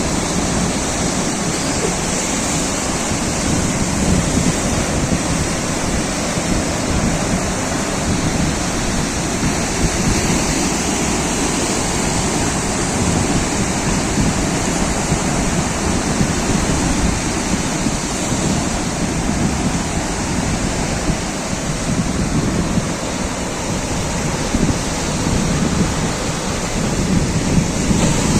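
Sea waves and surf: a steady, unbroken rushing wash of water.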